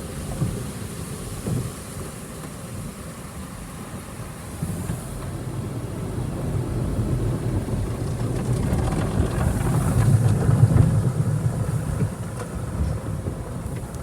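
Autec Evolution car wash's cloth brushes and curtain scrubbing over the car with water spray, heard from inside the cabin as a low rumble and patter. It builds to its loudest about ten seconds in, then eases off.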